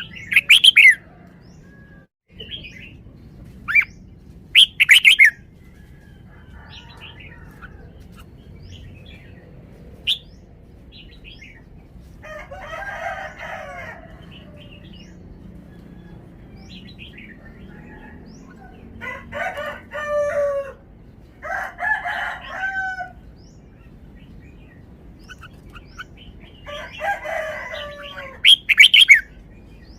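Red-whiskered bulbul singing in short, loud whistled phrases, three of them: near the start, about five seconds in, and near the end. Fainter bird calls come in between.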